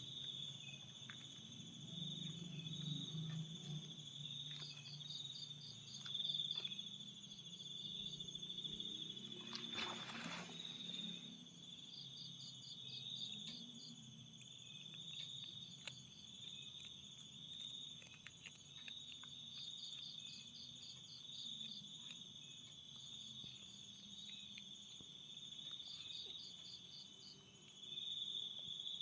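Insects chirping: a steady high shrill whine, with short trains of rapid chirps breaking in every few seconds. A brief rustle about ten seconds in.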